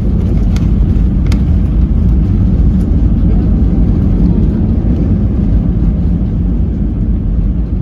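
Airbus A320 heard from inside the cabin during landing: a loud, steady low rumble of engines and airflow, with two short knocks in the first second and a half.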